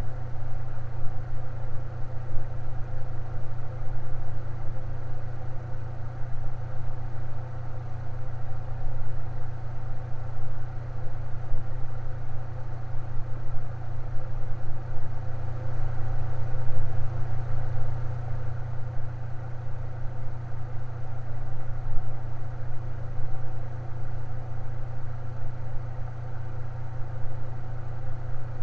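Electric fan running steadily, with a strong low hum under a set of fainter steady whirring tones.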